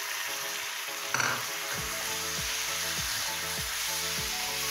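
Raw chicken pieces sizzling in hot onion-tomato masala in a pan as they are stirred in with a spatula, with a brief louder burst about a second in.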